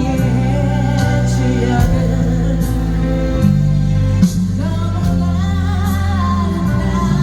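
Live band playing a slow Korean pop ballad, with a sung melody over sustained bass notes that change every second or so.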